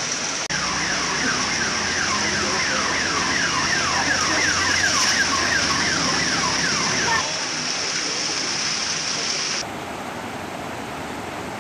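Heavy rain and traffic in a flooded street make a steady hiss, with a vehicle engine running low underneath. From about half a second in until about seven seconds, an electronic alarm or siren repeats a quick falling chirp, about three or four times a second. Near the end the sound cuts to floodwater rushing over a broken road edge.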